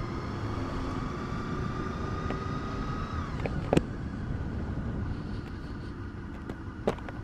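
Motorcycle riding along at steady speed: engine running under a constant rush of wind and road noise, with a thin whine that fades about three seconds in and two sharp clicks.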